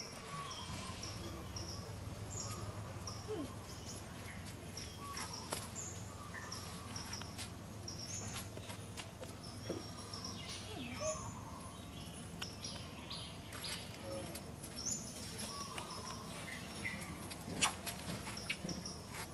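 Outdoor ambience: a bird chirping over and over in short high notes, with scattered clicks and rustles and faint voices in the background.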